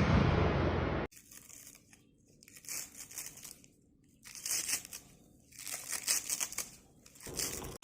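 A loud noise for about the first second stops abruptly. It is followed by about four short bursts of crisp crinkling and tearing sound with quiet gaps between them.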